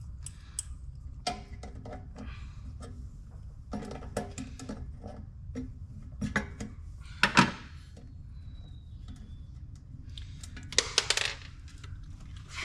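Metal tools and small parts clinking and knocking as they are handled, some clinks ringing briefly. The loudest knocks come about seven seconds in and again around eleven seconds, over a steady low hum.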